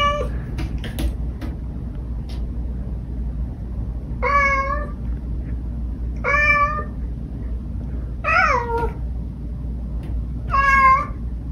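Domestic cat meowing five times, about two seconds apart; each meow is short and the fourth falls in pitch. A steady low hum runs underneath.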